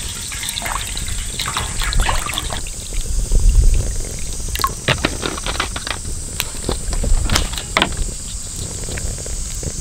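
Liquid pouring and sloshing, with scattered sharp clicks throughout.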